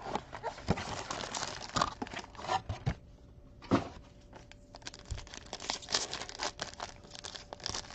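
Wrapping on a 2019 Topps Tier One baseball card box being torn and crinkled open, a run of rustles and sharp crackles with a short pause partway through.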